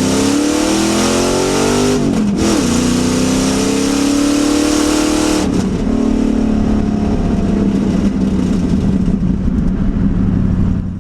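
Car engine accelerating hard, its pitch climbing and dropping at gear changes about two seconds in and again past five seconds, then running high until it fades out at the very end.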